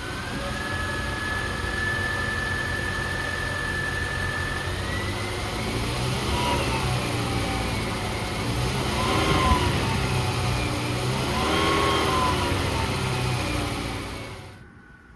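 2008 Mercury Mariner Hybrid's 2.3-litre four-cylinder engine running, revved up and let back down three times, about six, nine and a half and twelve seconds in, with a steady high whine over it. The sound stops suddenly near the end.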